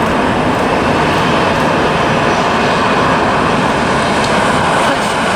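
Jet engines of a Frontier Airlines Airbus A320-family airliner at takeoff power: a loud, steady rushing noise.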